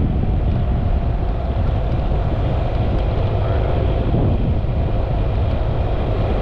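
Steady wind and road noise from riding a Yamaha XMAX 300 scooter, heaviest in the low end, with the single-cylinder engine's faint steady drone underneath.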